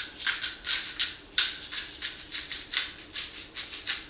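Pepper being dispensed by hand over a cooking pot: a quick run of short, sharp strokes, about three or four a second.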